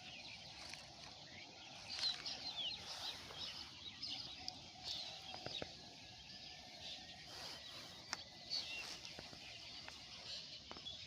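Small birds chirping and calling, many short high chirps and slurred notes, over a faint outdoor hiss, with a few sharp clicks scattered through.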